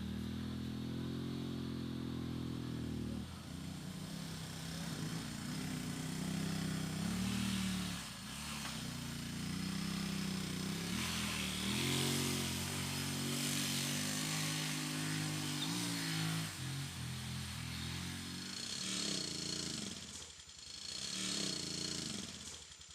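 A small engine running, its pitch stepping up and down several times as the speed changes.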